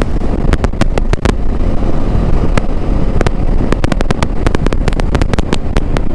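Wind blast buffeting a motorcycle vlogger's GoPro Hero 11 Media Mod mic at highway speed, a loud steady low rumble of wind and road noise. Many sharp crackles pop through it at irregular intervals, the crackle the rider puts down to the GoPro's automatic wind-noise reduction working at high speed.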